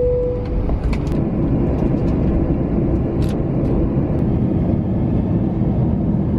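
Jet airliner heard from inside the cabin at takeoff: a loud, steady rush of engine and airflow noise with a low hum. The last note of the two-tone cabin chime fades out in the first second.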